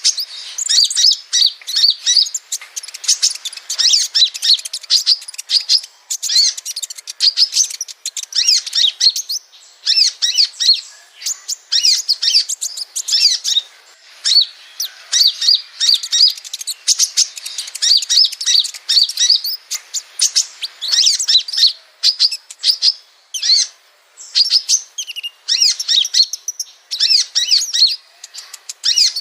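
Sunbird song: rapid, high-pitched twittering and chirping in dense phrases of a second or two, broken by short pauses.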